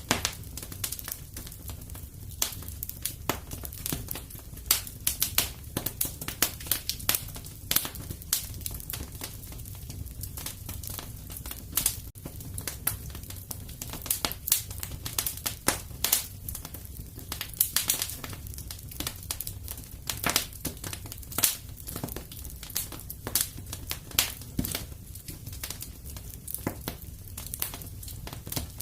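Wood fire crackling steadily in a fireplace: a low, even rumble with frequent irregular sharp pops and snaps.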